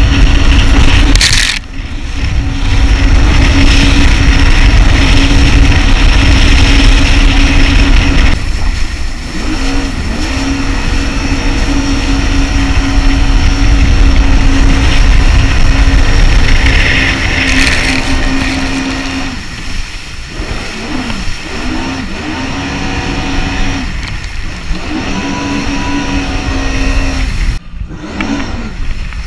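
Jet ski engine running under throttle with a steady tone. It eases off briefly several times, about two seconds in, around nine and twenty seconds, and again near the end.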